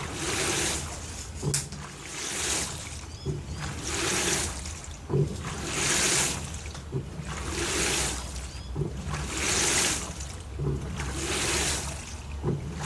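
LG TurboDrum WT-R852 top-loading washing machine agitating a full load of bedding in water. Water swishes in regular surges about every two seconds as the wash action reverses, with a short low knock at each reversal and a steady motor hum underneath.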